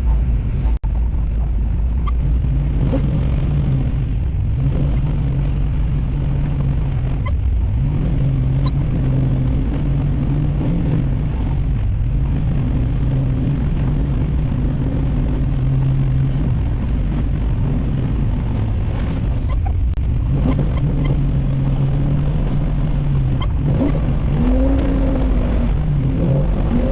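Small-block Chevy V8 of a 1964 Buick Special heard from inside the cabin while driving, its note rising and falling with the throttle, with a low rumble throughout. It briefly drops in pitch twice and climbs again near the end.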